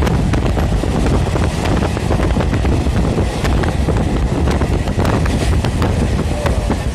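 Steady rumble of an EMU suburban train running at speed, heard from on board, with scattered clicks of wheels on the rails. Wind buffets the microphone throughout.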